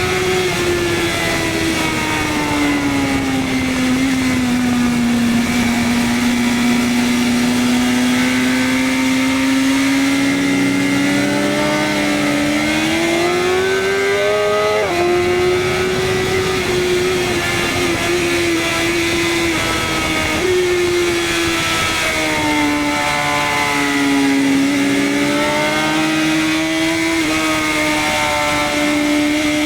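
BMW S1000RR superbike's inline-four engine running hard on track, its pitch rising and falling with the throttle. About halfway through it climbs, then drops sharply at a gear change. A steady rush of wind sits underneath.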